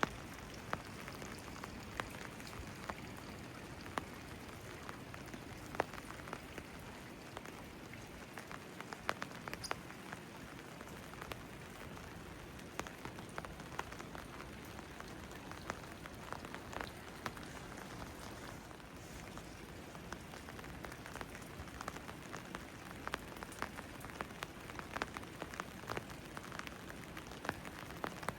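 Steady rain falling, with many separate sharp drops and drips landing close by.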